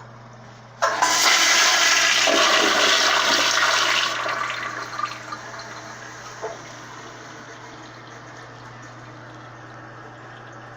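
Gerber Ultra Flush pressure-assisted toilet flushing: a sudden loud whoosh about a second in, lasting about three seconds, then fading to a quieter hiss of water with a couple of small knocks.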